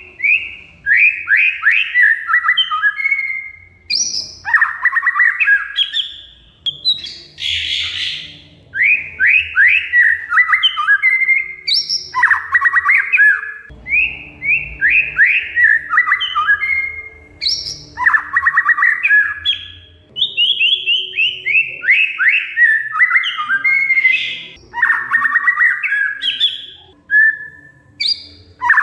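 Oriental magpie-robin (kacer) singing loudly in a rapid run of phrases, each a fast string of repeated notes, with short breaks between phrases and a harsh rasping chatter about eight seconds in.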